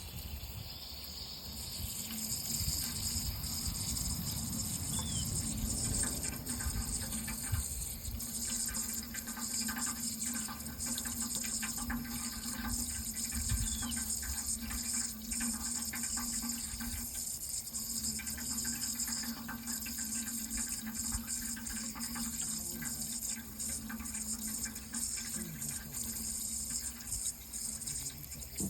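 Water running steadily, a continuous splashing hiss.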